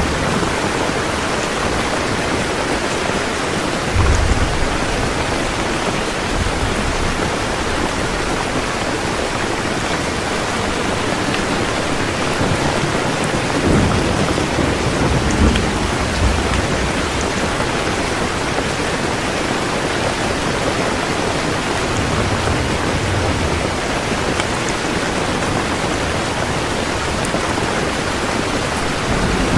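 Heavy rain falling steadily, with low rumbles of thunder rolling in about four seconds in, a few times around the middle, and again at the end.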